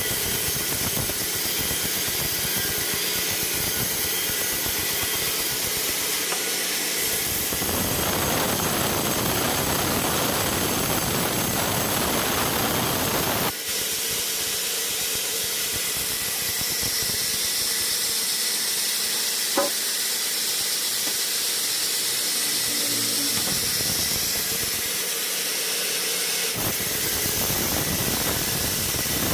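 Sawmill machinery running with a steady hissing noise. The sound changes abruptly about halfway through, and there is a brief sharp tick a few seconds later.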